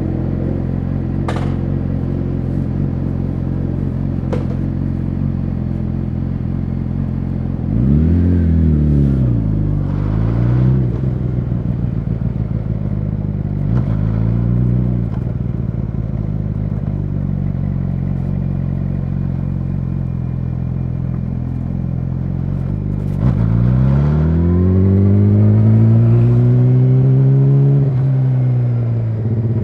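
Yamaha YZF-R6 inline-four through an SC-Project SC1-R exhaust, idling and being revved by hand. There is a quick double rev about a quarter of the way in, a short blip near the middle, and a longer rev held for several seconds near the end before it drops back to idle.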